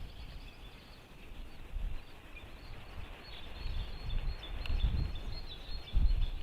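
Gusty low rumble of wind on the microphone, growing stronger in the second half, with many small songbirds chirping high and faintly in the background.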